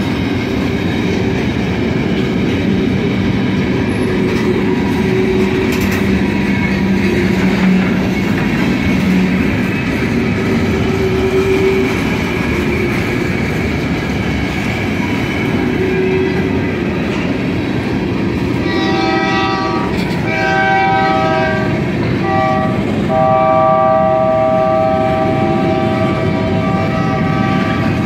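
Freight train cars rolling past with steady wheel-on-rail noise. About two-thirds of the way in, a diesel locomotive horn sounds the grade-crossing pattern: long, long, short, then a long blast.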